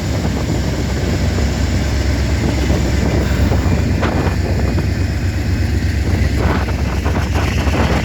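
Freight train rolling slowly past, a steady heavy low rumble with a few clacks from the wheels, and wind buffeting the microphone.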